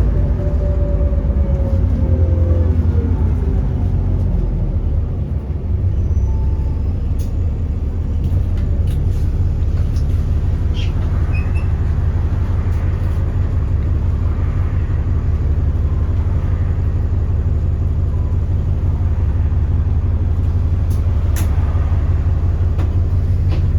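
Alexander Dennis Enviro400 double-decker bus heard from inside: a steady low engine and drivetrain drone, with a whine that falls in pitch over the first couple of seconds and a few short rattles and clicks later on.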